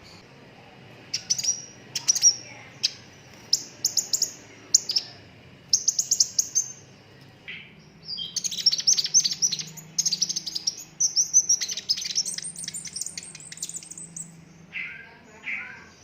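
Sunbird singing: a series of sharp, high chirps spaced about half a second apart, then from about halfway a fast, rolling trill of rapid high notes lasting several seconds.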